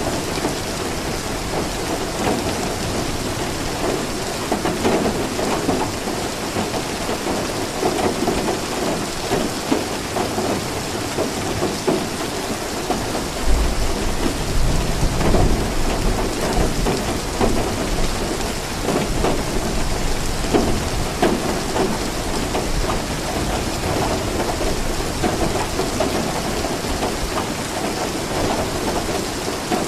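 Steady rain falling, with a low rumble of thunder rising about halfway through and lasting a few seconds.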